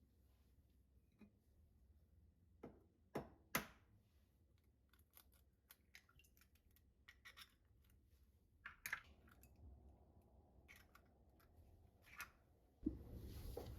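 Scattered light clicks and taps of kitchen utensils being handled, with a few sharper knocks; near the end a steady rushing noise starts suddenly.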